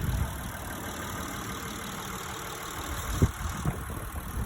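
Mitsubishi 3.0-litre MIVEC V6 idling steadily under the open hood, with a couple of light knocks about three seconds in.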